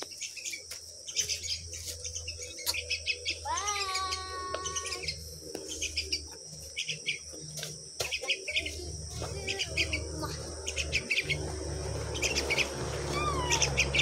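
Birds chirping in short, high, repeated chirps throughout, over a low rumble.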